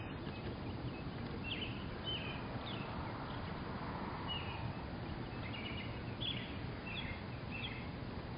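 Small birds chirping: short high calls scattered through, about eight of them, over a steady low outdoor background noise.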